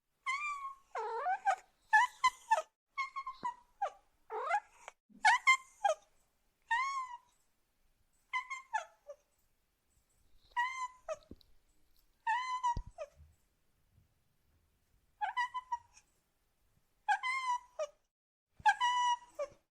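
Domestic cat meowing over and over, about a dozen separate high-pitched meows with short pauses between them, some sliding down in pitch.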